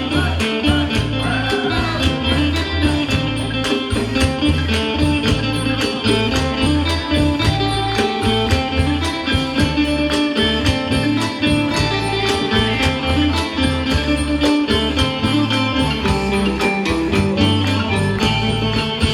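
Isan pong lang ensemble music playing continuously with a steady beat.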